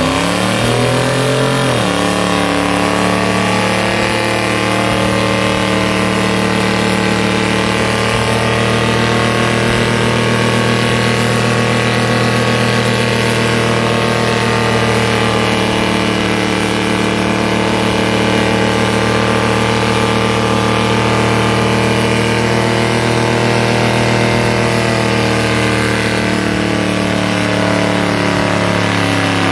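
Ford Crown Victoria's two-valve 4.6 V8 doing a burnout. It revs up over the first two seconds, then is held flat out at a steady high rpm while the rear tyres spin on the pavement.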